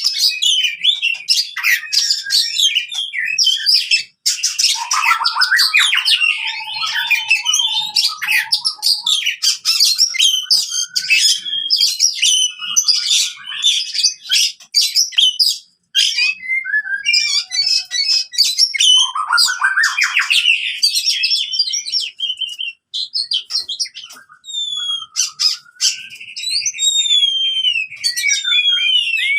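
Oriental magpie-robin (kacer) singing its aggressive 'fighting' song: a loud, nearly unbroken stream of rapid, varied chirps, trills and whistled phrases, with a few brief pauses.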